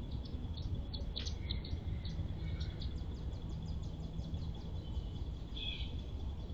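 Small birds chirping: a few short high chirps, then a quick, even run of chirps near the middle and one louder chirp later. Under them runs a steady low outdoor rumble.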